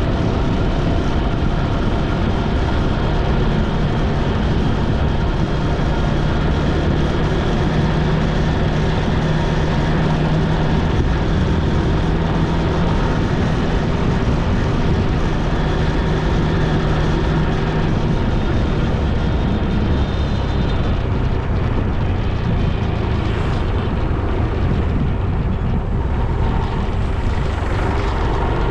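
Motorcycle on the move: steady wind rush and road noise over the engine running at a constant speed, its engine note holding steady and then fading about two-thirds of the way through.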